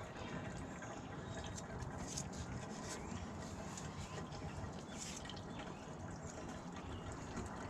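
Diesel fuel pouring from a portable fuel can into the Terex PT75's fuel tank, a steady gurgling fill with a few small clicks and drips.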